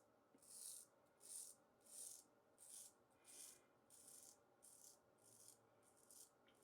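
Iwasaki tamahagane straight razor shaving through lathered stubble in quick short strokes: about ten faint rasping scrapes, roughly one and a half a second.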